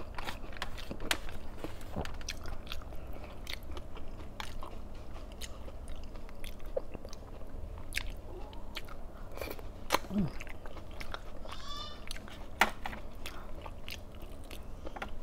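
Close-miked chewing and biting of food, with many wet mouth clicks and smacks. A brief low hum comes about ten seconds in.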